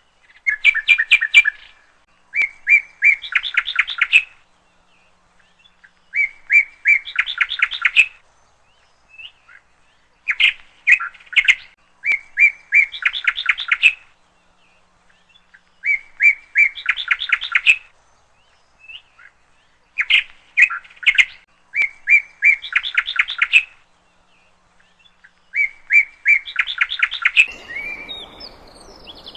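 A songbird singing the same short phrase again and again: a quick run of rapid notes lasting about two seconds, with short pauses between phrases. Near the end a steady rushing noise comes in under a few other chirps.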